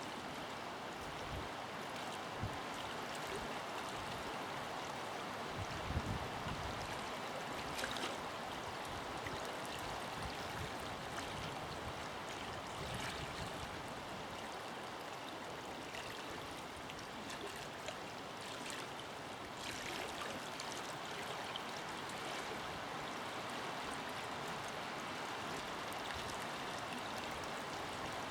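A forest river flowing: a steady rush of running water, with a couple of brief low thumps about six and eight seconds in.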